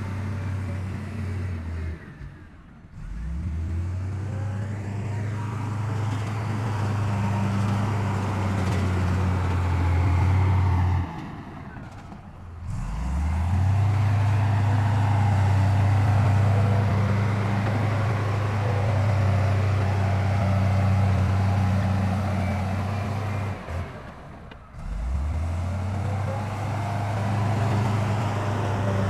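Heavy diesel engine of earthmoving machinery running steadily with a low drone. The drone cuts out briefly three times, about two seconds in, near the middle and near the end, and each time it comes back rising.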